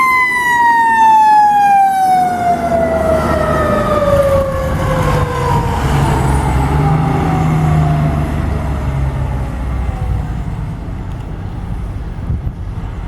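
Fire truck siren winding down in one long, slow falling tone that fades out near the end, with the truck's engine running under it, loudest in the middle.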